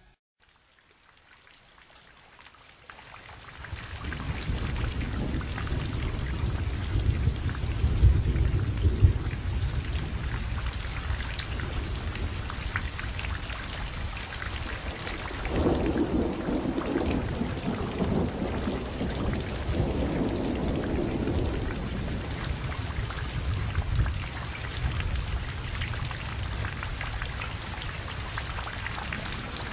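Steady rain falling, fading in over the first few seconds, with low rolls of thunder swelling up several times.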